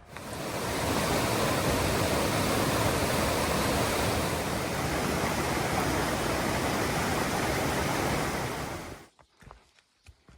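Steady rushing noise, even and without any rhythm or tone, that starts suddenly and cuts off about nine seconds in.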